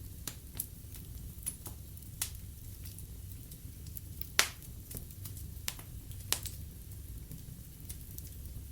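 Wood fire in a fireplace crackling: irregular sharp pops and snaps over a low steady rumble, the loudest pop about four and a half seconds in.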